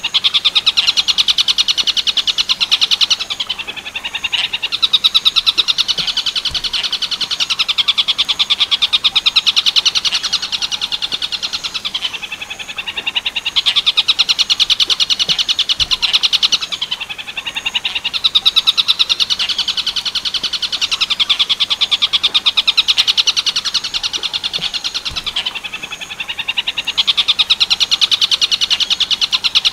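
Tengkek buto kingfisher calling in loud, fast rattling trills, each bout a few seconds long with short breaks between, repeated over and over. It is a tutor song for training long-tailed shrikes to mimic.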